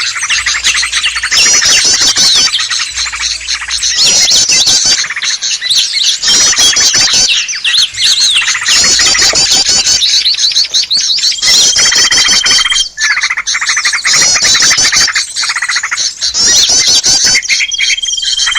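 Bird-luring (pikat) recording of many small birds calling at once: a dense, agitated chorus of rapid chirps and trills. A high, steady whistle is held for about a second twice, near the middle and near the end. It is the kind of noisy commotion used to draw small wild birds in to a trap.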